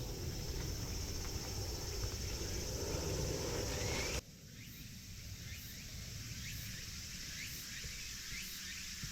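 Forest ambience with a steady insect drone. About four seconds in it drops abruptly to a quieter background, where short chirps repeat every second or so.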